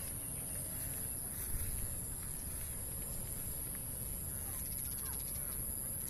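Outdoor nature ambience: a steady low rumble and a constant high hiss, with a few faint short bird calls.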